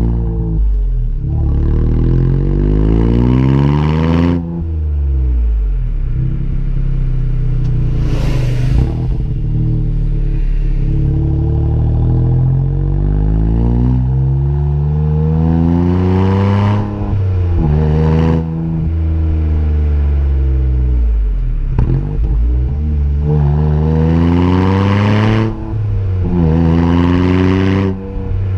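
Suzuki Alto Works HA36S turbo three-cylinder engine heard through a dual straight-tail muffler, revving repeatedly: its pitch climbs and drops back several times, with a steadier stretch early on between the climbs.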